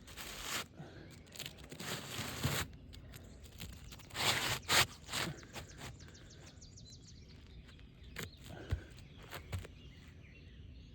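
Asphalt roof shingles scraping and crackling as a replacement shingle is worked into place, in several rough bursts, with a few sharp knocks near the end.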